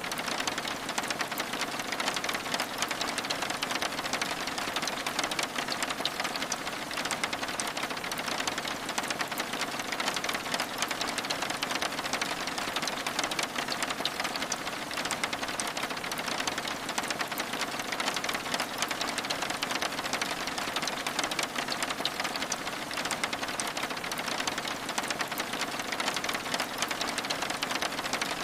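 Steady rain, a dense, even patter of many fine drops that goes on without a break.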